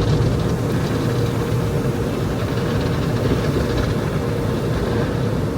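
Automatic tunnel car wash running, heard from inside the car: a steady rush and rumble of water spray and wash machinery, with a faint steady hum.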